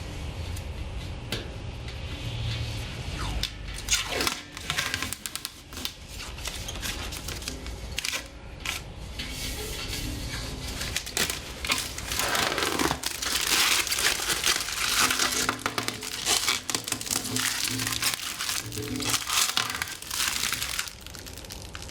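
Protective plastic film being peeled off a metal fire pit, with irregular crinkling and tearing that gets louder and busier in the second half. Background music plays underneath.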